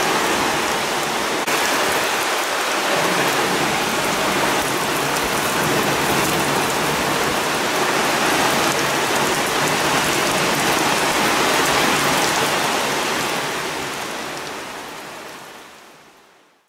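Heavy rain pouring down steadily during a violent thunderstorm, fading out over the last few seconds.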